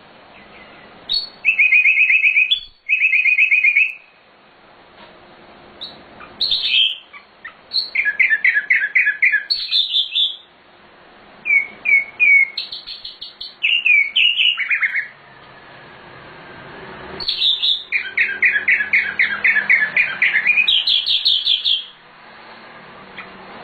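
Sikatan londo flycatcher singing in repeated phrases: fast trills of rapidly repeated high notes, mixed with short slurred whistles, with brief pauses between phrases.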